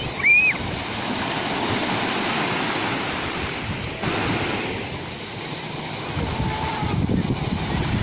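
Sea waves washing in and drawing back, a steady surf noise that swells and eases over a few seconds. A short high call sounds once near the start.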